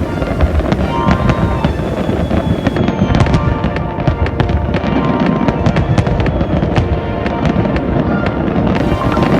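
Aerial fireworks going off in a rapid run of sharp bangs and crackles, growing denser from about three seconds in, with music playing underneath.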